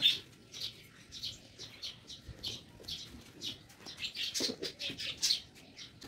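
Small birds chirping: a quick string of short, high chirps repeating two or three times a second.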